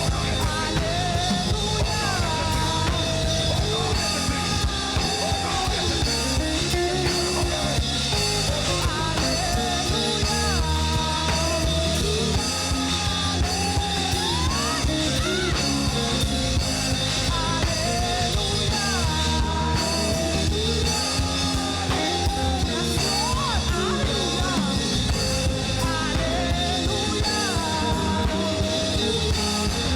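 Church worship band playing a song with a drum kit and a steady bass, a singer carrying the melody over it.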